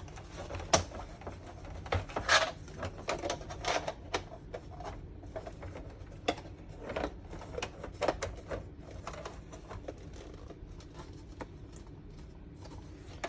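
Hard plastic diorama parts clicking and knocking as they are handled, a wall insert being pulled out of its panel, turned around and pushed back in. The clicks come irregularly, with a few sharper snaps in the first few seconds.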